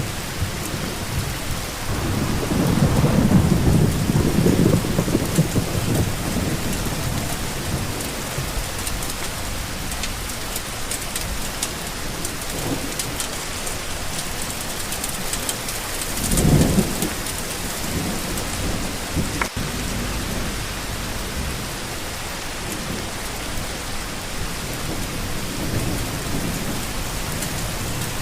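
Steady rain falling, with a long low rumble of thunder a couple of seconds in and a shorter one at about 16 seconds.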